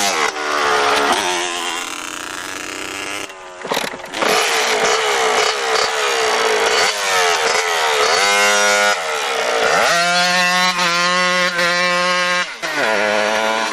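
Motorcycle engine revving, its note climbing, holding steady and dropping back several times, with a steady high note held for a couple of seconds near the end before it falls away.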